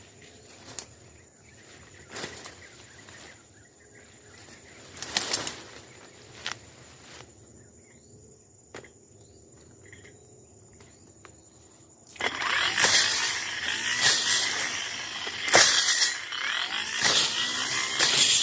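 Rustling and scattered clicks in dry brush under a thin, steady high insect tone. About twelve seconds in, a loud, harsh sound starts suddenly and keeps going: a Tanzu brush cutter running and tearing through scrub.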